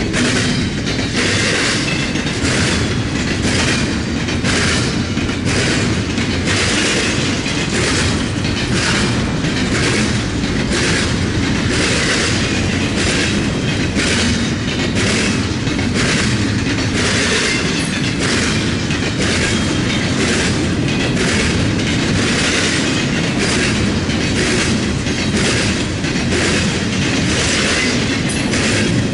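CSX freight train's cars rolling past at close range, their wheels clacking over rail joints in a steady, even rhythm above a continuous rumble.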